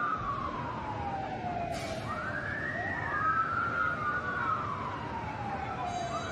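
Two emergency-vehicle sirens wailing at once, slightly out of step. Each one sweeps up quickly and then falls slowly, repeating about every four seconds, over a steady background rush.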